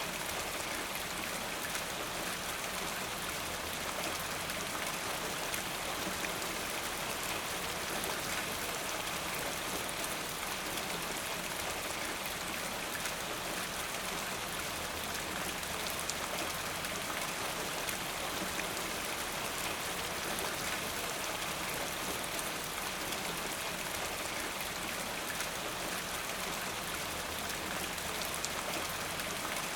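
Steady rainfall, an even hiss of rain with many fine individual drops pattering on a surface.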